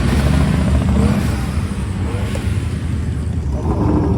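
Motor vehicle engine and road noise while driving, a steady low rumble; near the end a steady humming tone comes in over it.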